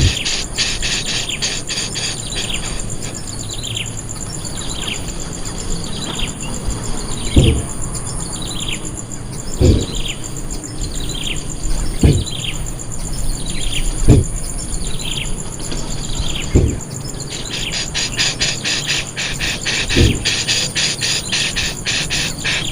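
A bird giving a run of short, repeated down-slurred notes, about one a second, over a steady high insect hum. At the start and again for the last few seconds, a rapid high buzzing trill takes over. A few low dull thumps come every two seconds or so.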